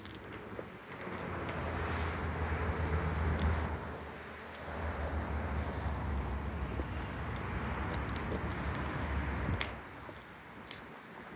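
Long Island Rail Road train running on continuous welded rail: a steady rolling rumble with a low hum and no rhythmic clicking from rail joints, swelling about a second in, dipping briefly near the middle and dropping off near the end, with a few faint light ticks.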